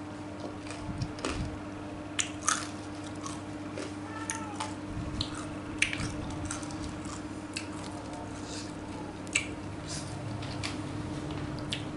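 Close-up eating sounds of a person chewing soft, spicy fried tofu: wet mouth clicks and smacks at irregular intervals, over a steady low hum.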